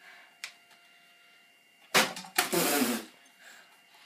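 A plastic water bottle flipped up at a ceiling fan strikes it with a sharp knock about two seconds in. It then clatters off for about half a second.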